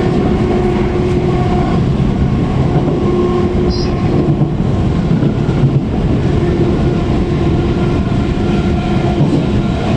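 Interior running noise of a Class 455 electric multiple unit on the move: a steady, dense rumble of wheels on rail with a faint steady hum running through it.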